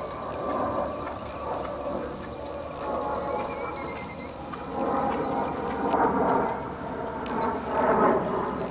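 A small bird chirping in short, high, squeaky calls: a quick run of them about three seconds in, then single chirps about once a second near the end, over a steady outdoor rushing noise.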